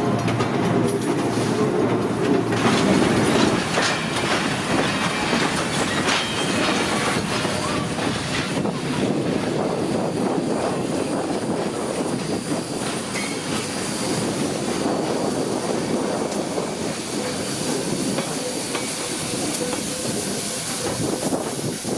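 Train passing close by: the steady rolling of steel wheels on rail with clicking over the joints, and a low hum in the first few seconds.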